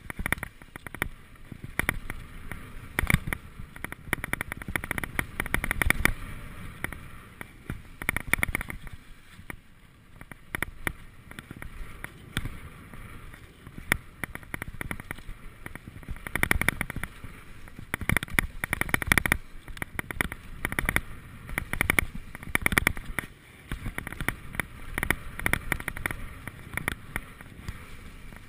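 Mountain bike clattering and rattling over a rough dirt trail, with frequent sharp knocks from bumps and wind rumbling on the microphone.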